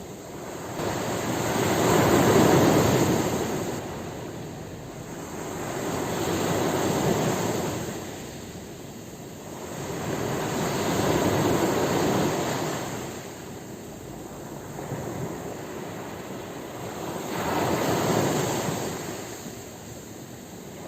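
Ocean waves breaking on a shore, the surf rising and falling in four slow swells, each a few seconds long.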